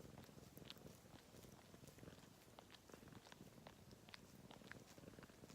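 A domestic cat purring softly and steadily, close up, with a few faint small clicks.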